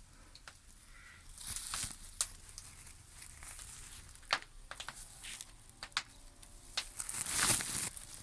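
Corn cobs and dry husks rustling and knocking as they are handled and loaded into a corn-drying oven, with scattered sharp clicks and louder rustles about a second and a half in and near the end.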